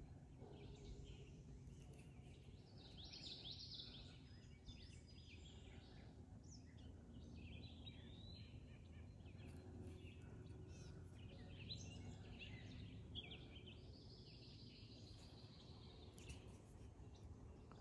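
Faint songbirds chirping and calling in short phrases, with one long, even high trill about three-quarters of the way through, over a low steady background rumble.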